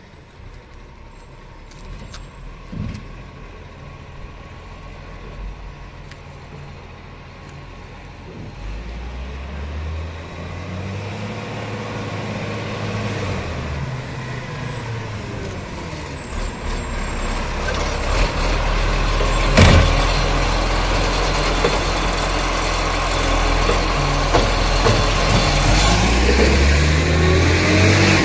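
Garbage truck's diesel engine drawing closer and growing steadily louder, its pitch rising and falling with the revs. There is one sharp crack about two-thirds of the way through.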